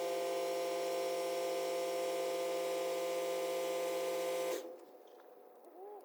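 A loud, steady electric buzz of several held tones that cuts off suddenly about four and a half seconds in, followed by a faint short squeak near the end.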